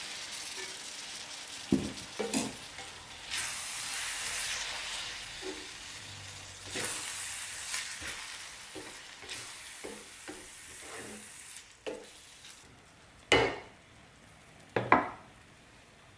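Egg mixture sizzling in a hot frying pan of cooked ground beef, stirred with a utensil that knocks sharply against the pan now and then. The sizzle comes in swells and dies down over the last few seconds.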